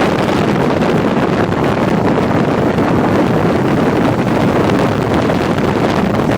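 Loud, steady wind rush over the microphone of a motorcycle being ridden at speed, mixed with road and engine noise.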